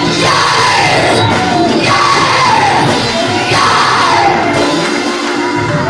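Loud church music with voices shouting and singing over it, including three long falling cries.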